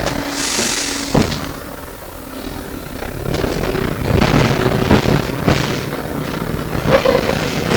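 Inside an SW5-class tram: a short hiss of air, a sharp knock, then the tram's rumble rising with repeated knocks and clatter from the wheels on the track as it gets under way.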